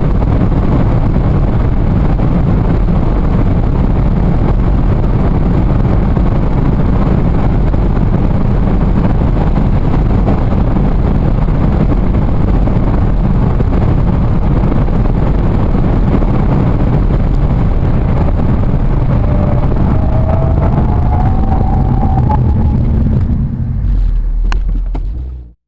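Audi S3's 2.0 TFSI turbocharged four-cylinder car running at sustained high speed, a steady dense rumble of engine, wind and tyre noise. A faint rising whine comes in near the end, then the sound dies away and cuts off.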